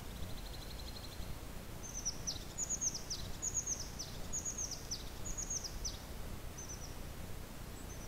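A songbird singing: a short rapid trill, then high notes that drop quickly in pitch, repeated in about six short phrases for some five seconds, over a low steady rumble.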